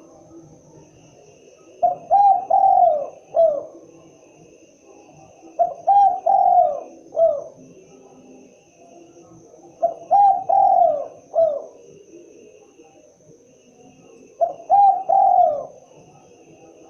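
Spotted dove (tekukur) cooing: four phrases of several short, falling notes each, repeated about every four seconds.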